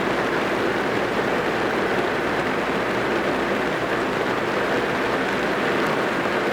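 Steady rain drumming on a car's roof and windows, heard from inside the car as an even, unbroken patter.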